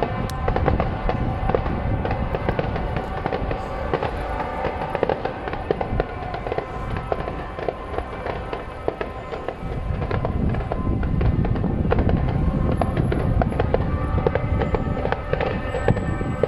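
Fireworks display: a dense run of rapid cracks and pops from bursting shells, growing fuller and louder from about ten seconds in.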